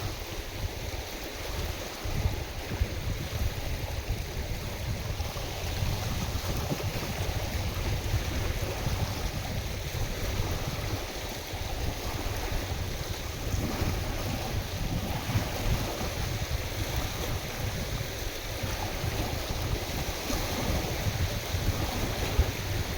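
Wind-driven waves washing steadily on a lake, with gusting wind buffeting the microphone in a low rumble.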